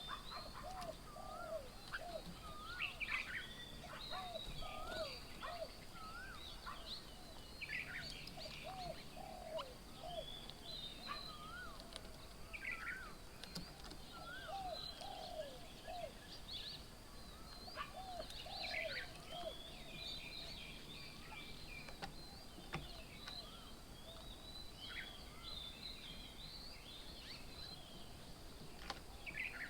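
Several birds calling and chirping together: a repeated short, hooked lower note and another a little higher, over a scatter of quick high chirps and trills.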